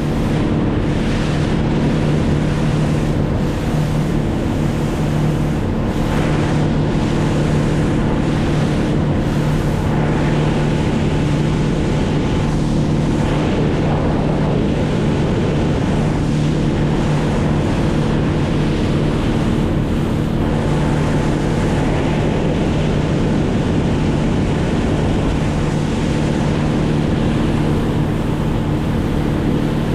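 Boat motor running steadily, with a constant drone, over water rushing past the hull and wind on the microphone.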